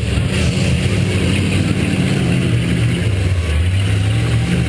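V8 demolition derby car engine running loud and close, with small changes in pitch and no hard revving.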